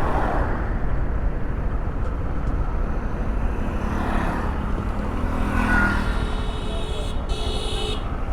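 Road traffic noise: a steady low rumble of engines and wind along a roadway, with a brief high-pitched tone about seven seconds in.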